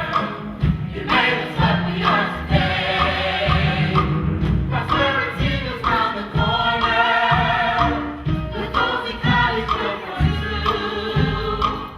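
A stage cast singing together in a musical-theatre chorus number, with instrumental accompaniment.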